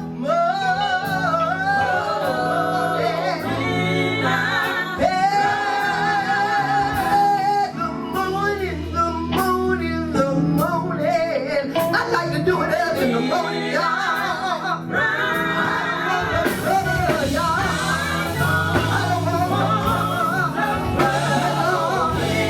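Live gospel band with a lead singer drawing out long, wavering held notes over a steady bass line and accompaniment.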